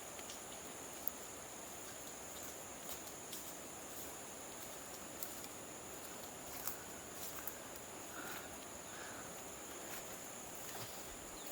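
Insects trilling steadily in two high, unbroken tones, over an even rushing noise, with scattered faint clicks.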